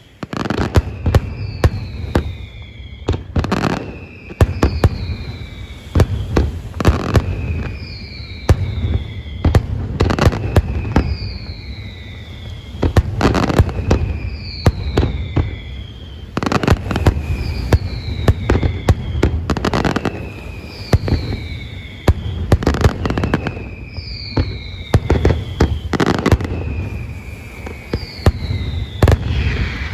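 Fireworks display: a dense, continuous run of bangs and crackles from bursting shells, starting abruptly. Over it, a high whistle falls in pitch and repeats about every second and a half.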